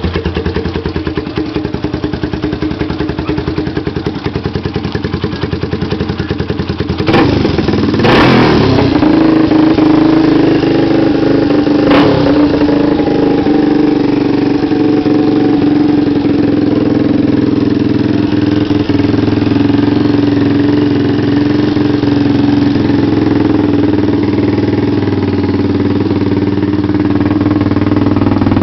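Yamaha Warrior 350 ATV's air-cooled single-cylinder four-stroke engine, its top end freshly rebuilt with a 12.5:1 high-compression JE piston, running with a steady firing beat. About seven seconds in the throttle is blipped, and after that it runs louder and steadier.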